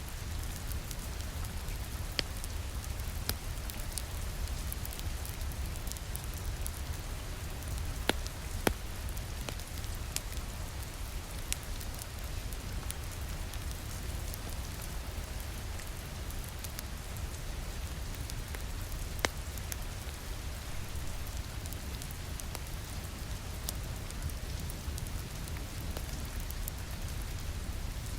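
Steady rain against a window over a low rumble, with the sharp crackles and pops of a wood fire in a fireplace now and then.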